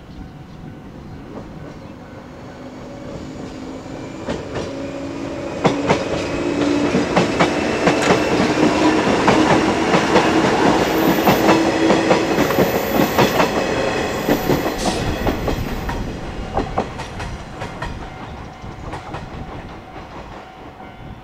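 JR 381 series limited-express electric train approaching and passing at speed, its wheels clacking over the rail joints; it grows louder up to about ten seconds in, then fades as it runs away. A level-crossing alarm rings steadily throughout.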